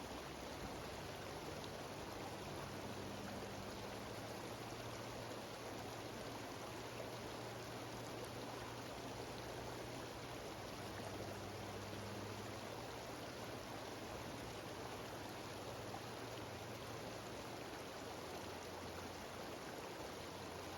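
Mountain stream cascading down a waterfall: a steady, even rush of water.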